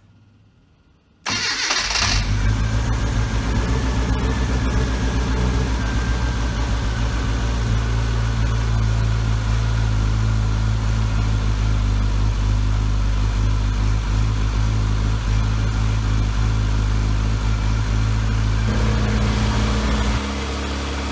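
Classic Mini's freshly rebuilt A-Series four-cylinder engine starting: it catches suddenly about a second in and runs steadily, then its note changes near the end and it drops quieter as it falters.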